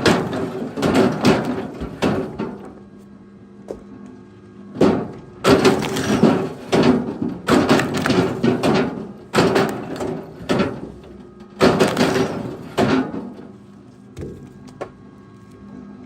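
Pieces of firewood knocking and clattering as they are thrown and handled, in irregular clusters of sharp wooden thuds with short pauses between, over a faint steady hum.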